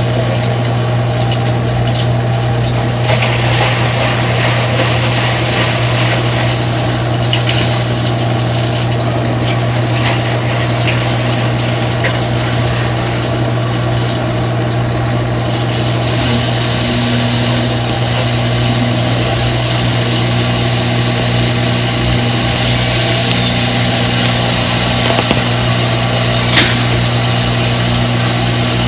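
Front-load washing machine running with a steady motor hum, as in its spin cycle. About halfway through the sound brightens slightly and a second, higher tone joins.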